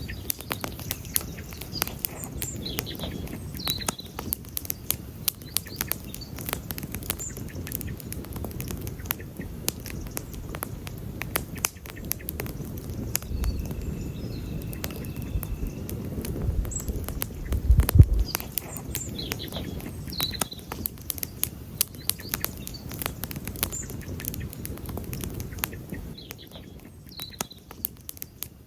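Wood campfire crackling, with frequent sharp pops and snaps over a low rumble from the flames, and a louder low thud about two-thirds of the way through. Faint bird chirps come in a few times.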